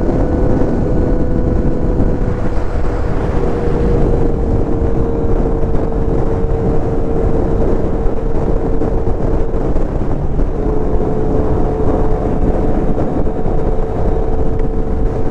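2023 Kawasaki Z900's inline-four engine holding a steady note at cruising speed under heavy wind and road rush. The engine tone dips and breaks off about ten seconds in, then comes back slightly lower.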